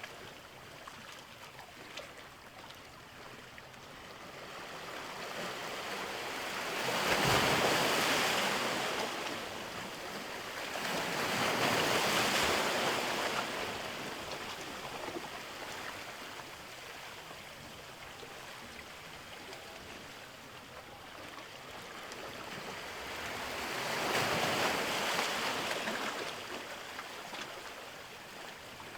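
Sea waves breaking and washing in: three waves swell up and fade away, with a softer steady hiss of water between them.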